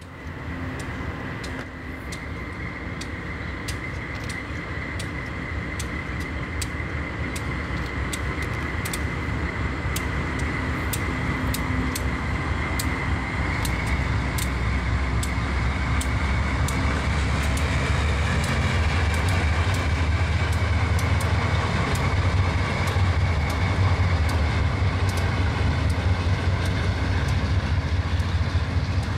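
Freight train led by two diesel-electric locomotives approaching and passing. The diesels' rumble grows steadily louder and is heaviest from about two-thirds of the way in, and covered hopper wagons roll by near the end. A steady high whine runs through it.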